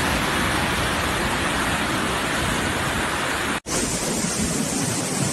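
Floodwater rushing in a steady, dense stream of noise. The sound drops out for an instant about three and a half seconds in, then comes back with more hiss.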